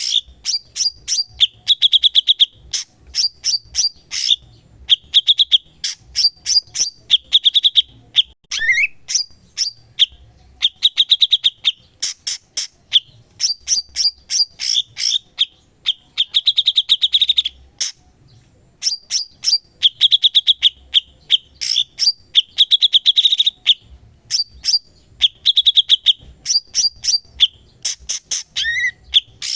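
Cucak cungkok songbird singing continuously in full voice: rapid phrases of sharp chirps and buzzy trills, now and then an upward-sweeping whistle, with short pauses between phrases.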